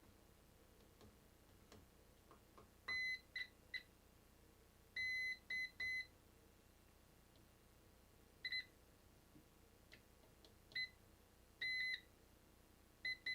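Multimeter continuity tester beeping on and off as its probes are touched to pins and traces, about a dozen beeps of one steady high pitch, some long, some short and broken where the probe contact is unsteady, with light ticks of the probe tips between them. Each beep signals a closed connection between the two probed points.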